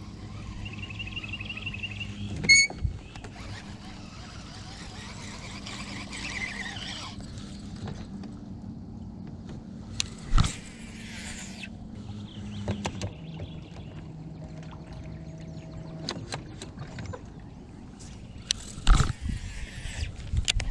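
Steady low hum of the jon boat's motor, dropping slightly in pitch about two-thirds of the way through, with several sharp knocks and short hissing stretches over it.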